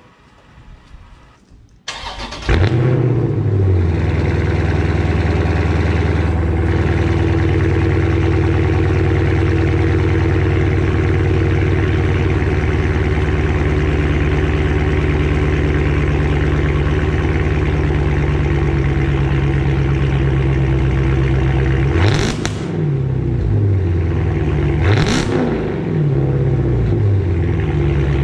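Dodge Challenger Scat Pack's 6.4-litre HEMI V8 cranking and catching about two seconds in after sitting for hours. Its start-up flare falls into a steady, loud idle through a mid-muffler and resonator-delete exhaust. Near the end it is revved twice in short blips, with a third rev just starting.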